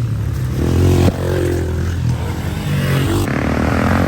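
Dirt bike engine revving up and down while riding, its pitch rising and falling with the throttle, easing off briefly about a second in.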